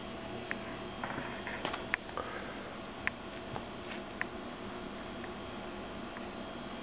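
A cat playing on the floor: a few light taps and scuffs, mostly in the first four seconds, over a steady background hiss.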